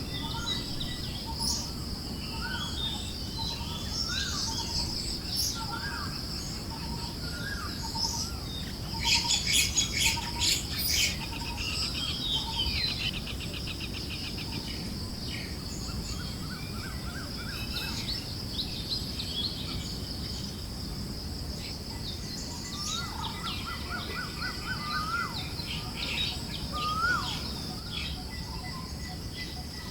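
Forest birds chirping and calling over a steady background hiss of wind, with a continuous high-pitched drone. A burst of rapid trilling comes about nine seconds in.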